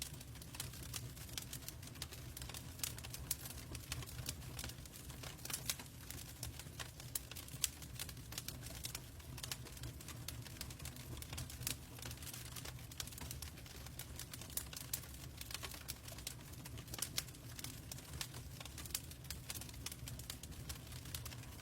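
Log fire crackling: many small irregular pops and snaps of burning wood over a low steady rumble.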